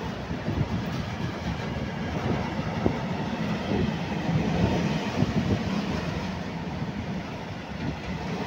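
Freight train of high-sided open wagons (Eaos type) rolling past: a steady rumble of steel wheels on the rails, with scattered clacks as wheels cross rail joints.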